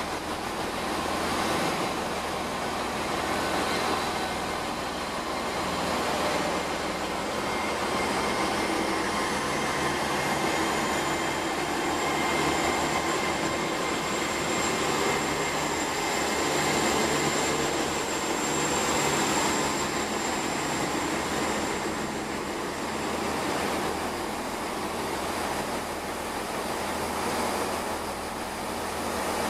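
Great Western Railway Class 800/802 bi-mode Intercity Express Train running on its underfloor diesel engines as it moves slowly past the platform: a steady engine hum and wheel-on-rail rumble, with a thin high whine that rises a little about ten seconds in and then holds.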